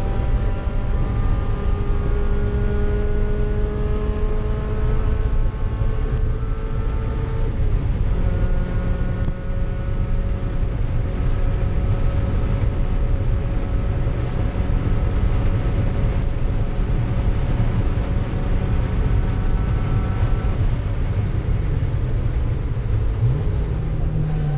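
Mazda Miata race car's four-cylinder engine running hard under load, heard from inside the stripped cabin. Its pitch creeps slowly upward over long stretches, with a break about a third of the way in and a shift in pitch near the end.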